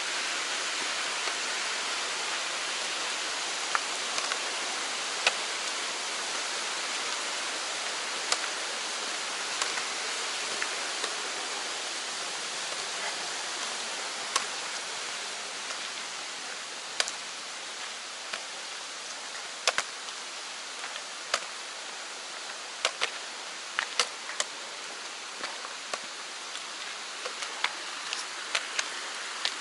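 A mountain stream rushing steadily, easing slowly, with scattered sharp taps that come more often in the second half.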